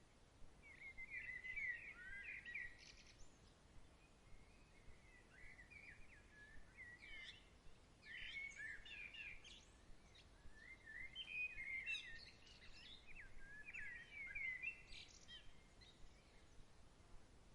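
A songbird singing in three long runs of quick, twittering chirps: one near the start, one around the middle and one longer run near the end. A faint steady background hiss runs under it.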